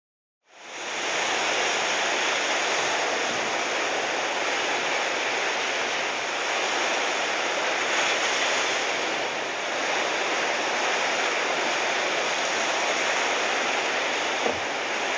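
Steady, even rush of ocean surf, coming in about half a second in after a moment of silence, with a short tick near the end.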